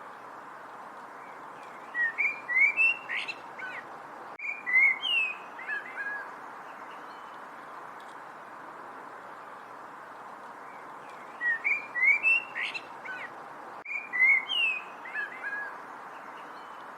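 A songbird singing a phrase of quick, rapidly gliding chirps and whistled notes that lasts about four seconds. The same phrase comes twice, about nine and a half seconds apart, over a steady hiss.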